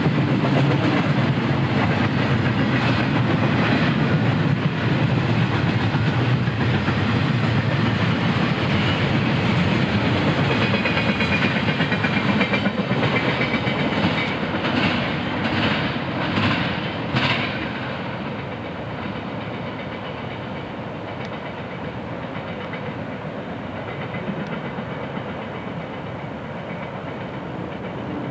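Double-stack container train rolling past at close range: steady wheel-on-rail rumble with clickety-clack over the rail joints. A few sharp clacks come between about 14 and 17 seconds in, then the sound drops to a quieter, even rumble.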